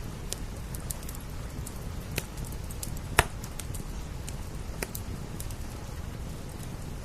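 Wood fire crackling: scattered sharp pops and snaps, one much louder pop about three seconds in, over a steady low rushing noise.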